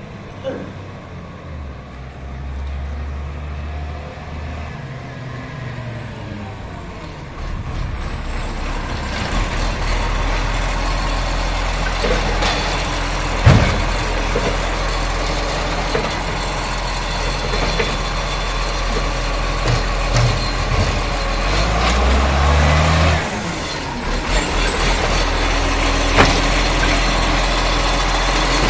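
Garbage truck's diesel engine running and growing louder, with a sharp bang about thirteen seconds in and a smaller one near the end. A brief rise and drop in engine pitch comes a little past two-thirds of the way through.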